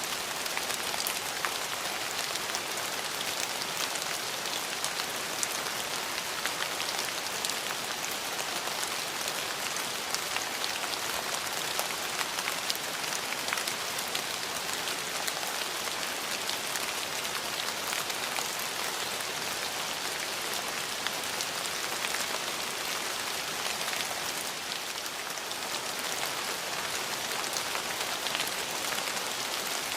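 Steady rain falling, an even hiss with many separate drops landing as fine ticks.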